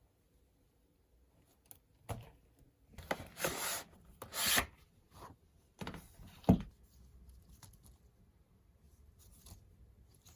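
A series of short rubbing, scraping strokes from something being handled, ending in a sharp knock a little past halfway, then only faint small sounds.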